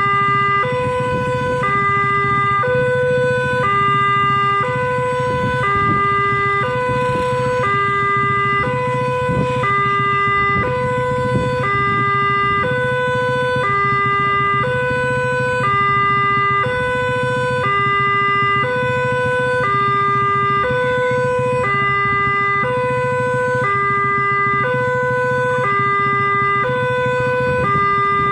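Railway level crossing warning alarm sounding continuously, an electronic two-tone chime alternating between a higher and a lower note, about one pair every two seconds, signalling that a train is approaching and the barrier is closed. A steady low rumble runs underneath.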